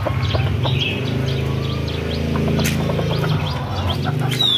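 Scattered short bird chirps and tweets over a steady low hum, with one falling whistled note near the end.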